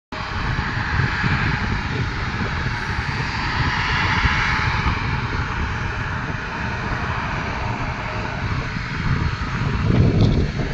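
Regional airliner's jet or turboprop engines running at high power for takeoff: a steady, loud engine noise over a low rumble, with a brief wind buffet on the microphone about ten seconds in.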